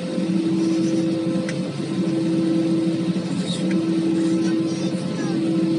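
Airbus A320 cabin hum from its engines and air systems on the ground before takeoff: a steady drone whose main tone breaks off briefly every second or two.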